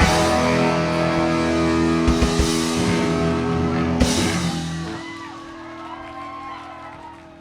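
A live rock band plays the closing bars of a song with guitars and drums, hitting a final accent about four seconds in. After that hit a held guitar chord rings on and fades away.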